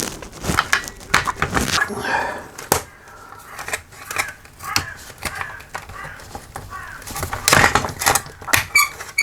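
Plastic laminator parts clicking, knocking and squeaking as a part is forced back into the housing, with irregular knocks throughout and short squeaks now and then.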